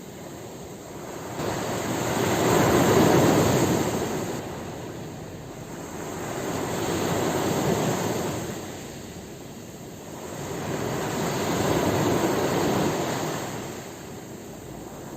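Ocean waves breaking on a shore: the surf rushes in and draws back three times, each swell building to a loud peak and then falling away.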